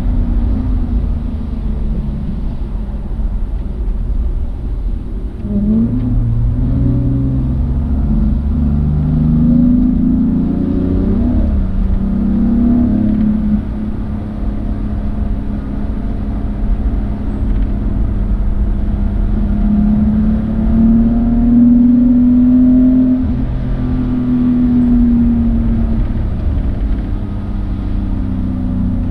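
Car engine accelerating and easing off, its pitch rising and falling several times, over a steady low rumble.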